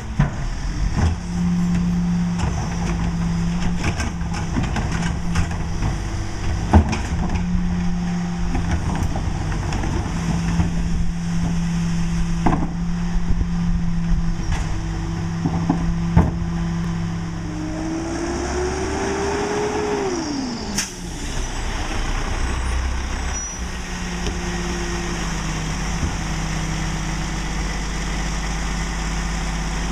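Mack LE garbage truck with a McNeilus rear-load body, its diesel engine running steadily with scattered knocks and bangs. A little past halfway a whine rises and then drops away quickly, followed by one sharp burst of noise.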